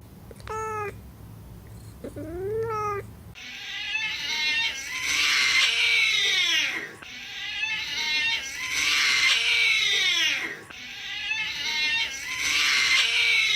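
A cat meowing twice, short calls that rise and fall in pitch. From about three seconds in, a loud harsh cat yowl with a falling pitch repeats about every three and a half seconds.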